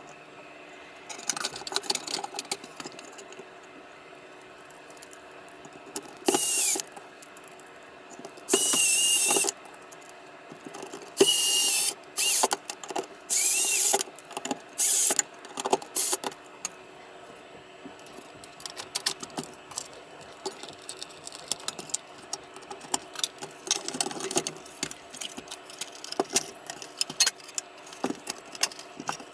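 A small electric motor tool run in about five short bursts of a second or so, each a loud hiss with a high whine that sags as it stops, among many small clicks and taps of handling parts on the bench.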